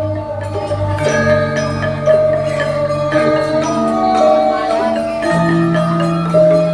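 Javanese gamelan ensemble playing a lancaran in pelog tuning: bronze metallophones ring in overlapping sustained notes over a steady beat, and a deep gong tone dies away about a second in.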